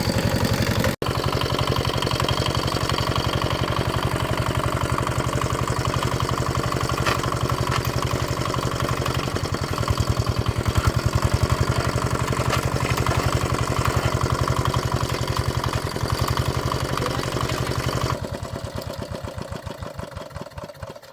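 Walk-behind tractor engine running steadily with an even beat, tested after repair. Near the end it is shut off, and the strokes slow and fade as it runs down.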